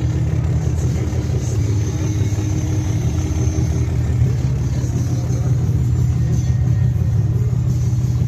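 Car engine idling: a steady low rumble with rapid even pulsing.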